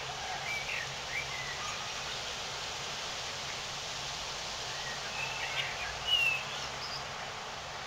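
Common blackbird singing in short phrases, near the start and again around six seconds in, over a steady background hiss.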